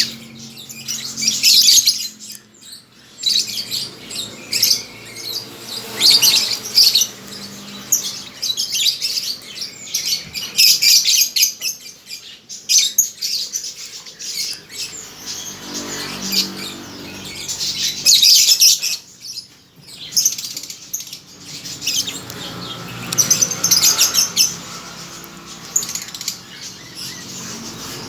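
Lovebirds chattering with high chirps in bursts every few seconds.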